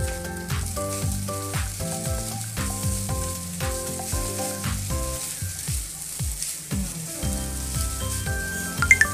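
Fried rice sizzling in a hot wok while a wooden spatula stirs and tosses it, with a few sharp knocks near the end. Background music plays throughout.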